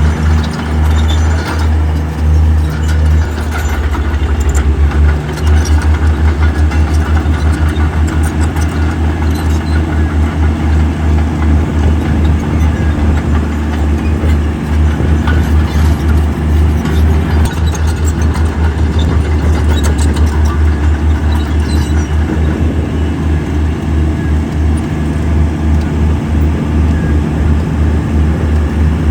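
Heavy diesel engine of earthmoving equipment running loud and steady under load, a pulsing low rumble that shifts briefly a few seconds in.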